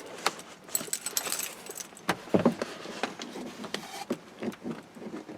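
A bunch of keys jangling and clicking as the ignition key is turned in a pickup truck whose battery is dead. The engine does not crank: there are only scattered short clicks and rattles.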